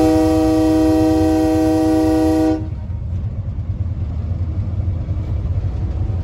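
Train horn ending a long blast, cut off about two and a half seconds in, over the steady low rumble of the train rolling along the track.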